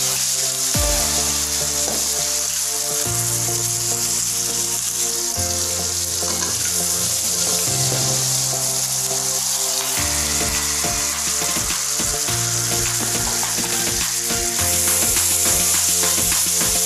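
Food sizzling in hot oil in a steel wok and stirred with a ladle, with a steady sizzle throughout and scraping strokes in the second half. Background music with a slow, changing bass line plays underneath.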